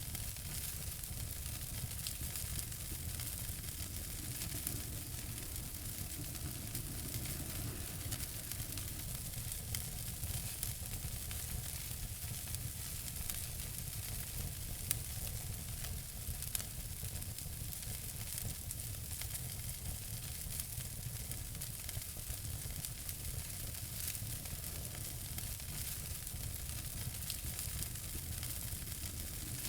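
Wood fire in a fireplace crackling steadily, a soft hiss under many small pops, with a couple of sharper pops about halfway through.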